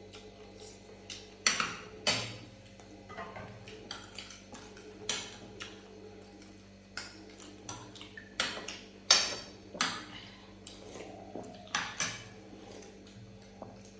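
Cutlery clinking and scraping against plates and bowls during a meal, in irregular sharp clinks, a few of them louder.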